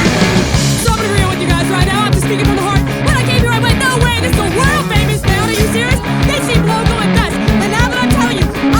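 A three-piece punk rock band of electric guitar, bass guitar and drums plays a fast song live. Dense, rapid drumming runs under sustained guitar and bass, with a wavering lead line on top.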